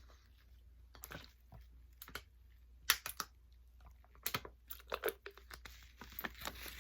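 Takeout food and its packaging being handled: scattered crinkles, crunches and light taps, irregular and of varying loudness.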